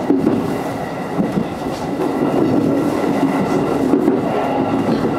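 JR electric train running at speed, heard from behind the driver's cab: a steady rolling rumble, with the wheels clattering over rail joints and points.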